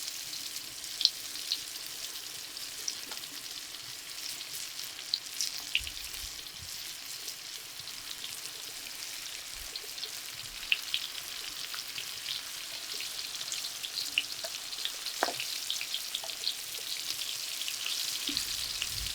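Food deep-frying in hot oil: a steady sizzle with frequent small crackling pops.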